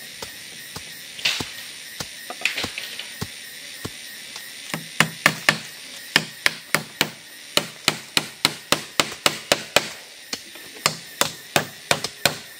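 Repeated chopping strikes: a few scattered blows, then from about five seconds in a steady run of about three sharp chops a second.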